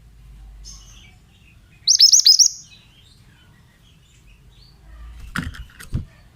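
Pied bushchat (mantenan) singing: one short, loud phrase of quick, high, sharply hooked notes about two seconds in, after a faint chirp. Near the end come two brief knocks.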